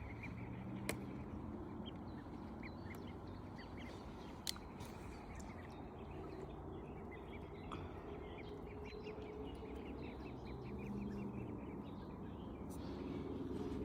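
Ducks calling, with small birds chirping and two sharp clicks, about one second and four and a half seconds in.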